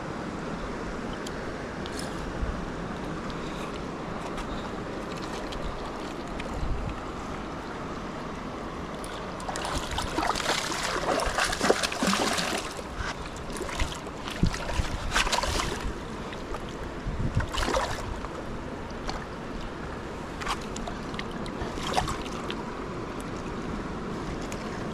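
Steady rush of river water, with a cluster of sharp splashes and knocks starting about ten seconds in and scattered ones after that.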